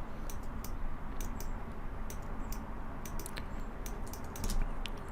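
Computer keyboard and mouse clicks, irregular, several a second.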